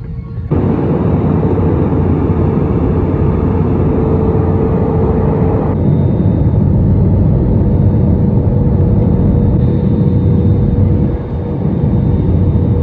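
Loud, steady rumble of a vehicle in motion, heaviest in the low end, with a faint steady hum over it. The sound changes abruptly about six seconds in and dips briefly near eleven seconds.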